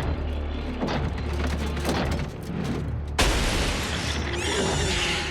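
Animated sci-fi sound effects: mechanical clicking and clanking over a low drone of score music, then a sudden loud rushing blast a little past halfway, followed by wavering high whines.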